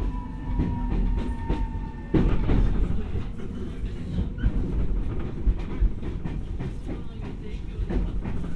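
Keio 1000 series electric train heard from inside the car while braking into a station: a thin inverter whine falling slowly in pitch fades out about two seconds in, over a steady low rumble with wheel clicks from the rail joints. The rumble gets louder about two seconds in.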